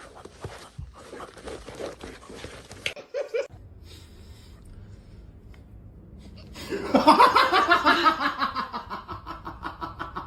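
Soft scuffling and clicks, then about seven seconds in a person bursts into loud laughter in quick, rapid pulses.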